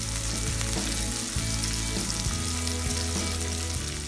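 Butter melting into hot oil around a whole fish frying on a nonstick tawa, giving a steady crackling sizzle, over a low steady hum.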